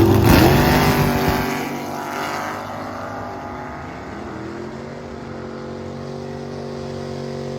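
Rebuilt Chevrolet Vega drag car at full throttle down the strip. Its engine note climbs to the loudest point right at the start, then falls lower and fades to a steadier, quieter drone as it pulls away.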